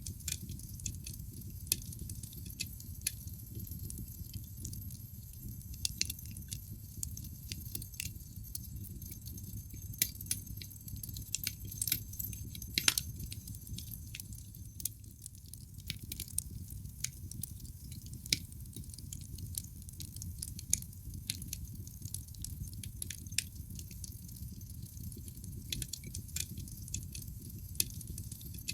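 Wood logs burning in a fireplace: irregular sharp crackles and pops over the low, steady rumble of the flames, with one louder pop a little before halfway.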